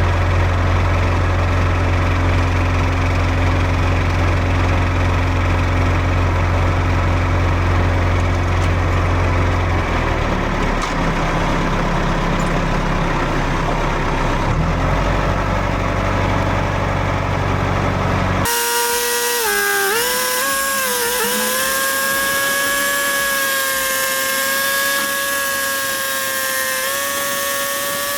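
John Deere tractor engine running with a steady low hum, changing pitch about ten seconds in. About eighteen seconds in, it cuts abruptly to a steady higher-pitched mechanical whine that wavers briefly and then holds.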